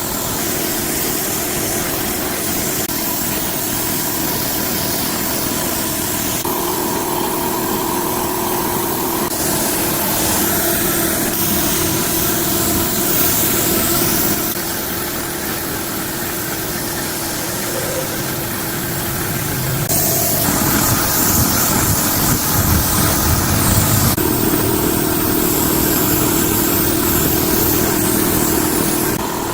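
D24 diesel engine running steadily after its restoration. The sound changes abruptly several times, as between different shots of the running engine.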